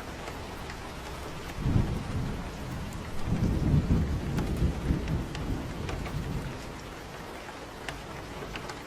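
Steady rain with a rumble of thunder that begins about two seconds in, swells, and fades out by about seven seconds.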